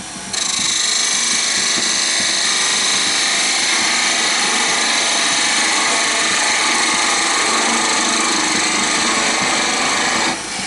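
Turning tool cutting across the end grain of a spinning wooden blank on a wood lathe, facing off the end of a chess piece slightly concave, a steady loud hiss of the cut. It starts just after the beginning and stops shortly before the end.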